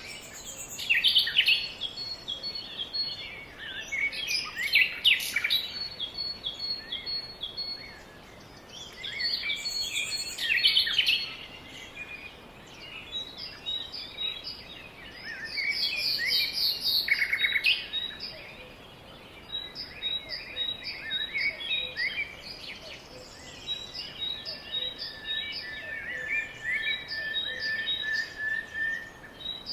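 Several songbirds singing and chirping, with busy bursts of trills and a run of short repeated notes high up in the second half.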